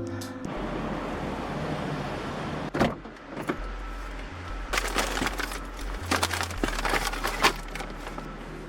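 Car sounds: a steady rush of road noise for about two seconds, then a run of sharp clicks and knocks.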